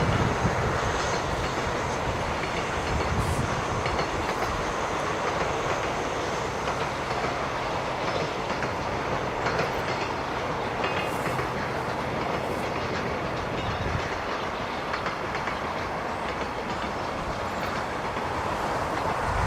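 Freight train wagons rolling past, a steady clatter of wheels on the rails.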